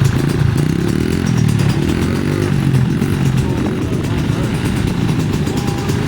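Dirt bike engine running at low speed, its pitch rising and falling a little as the throttle is opened and eased.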